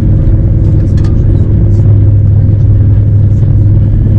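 Steady, loud low rumble of a moving vehicle.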